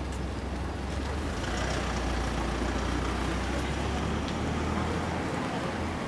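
Street traffic: a large vehicle's low engine rumble that fades away about four seconds in, under a hiss of road noise that swells from about a second and a half in.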